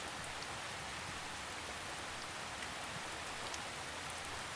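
Steady rain falling on leaves, an even hiss with faint scattered drops.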